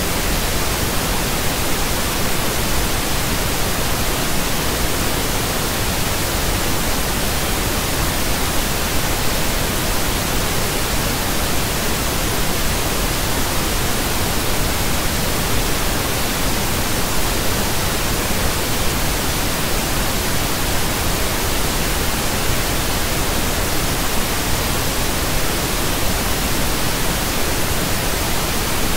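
Pink noise: a steady, even hiss spread evenly from the lowest to the highest pitches, with no change.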